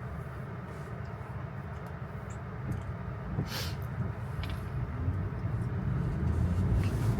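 Tesla electric car's tyre and road noise on a wet road, heard from inside the cabin: a steady low rumble with a hiss that grows louder in the second half, with a brief sharper hiss about three and a half seconds in.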